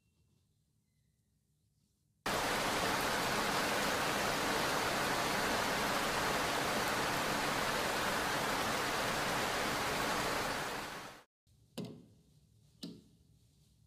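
Heavy steady rain that starts abruptly about two seconds in and fades out near the end. Two sharp clicks follow, about a second apart.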